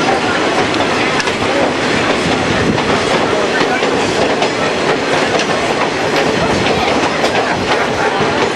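Passenger train cars running along the track, heard from an open-sided car: a steady rumble and clatter of wheels on the rails.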